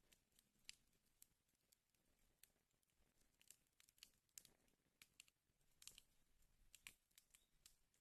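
Wood fire in a fireplace crackling quietly, with irregular small snaps and a few louder pops in the second half.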